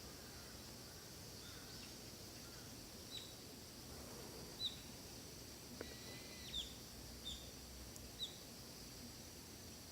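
Faint forest ambience over a steady high hiss. A bird gives about five short, high, downward-sliding chirps, starting about three seconds in.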